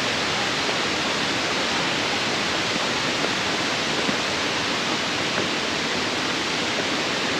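Waterfall cascade rushing steadily, a dense even roar of falling water with no break.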